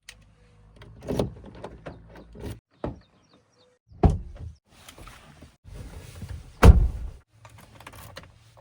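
A backhoe loader's diesel engine running, with loud metallic clunks and knocks, the heaviest about a second in, at about four seconds and near seven seconds. The sound cuts off abruptly to silence a few times.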